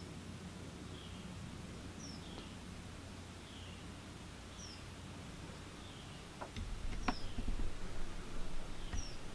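A bird repeating short, high, falling chirps every second or so over a steady low hum. From about two-thirds of the way in come a few sharp knocks and bumps as the camera is handled.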